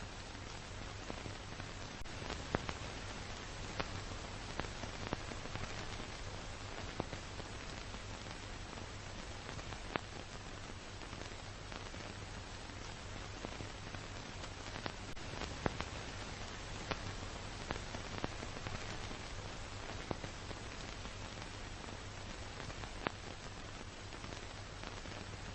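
Steady noise of a car being driven, a hiss with a low hum underneath and scattered small ticks throughout.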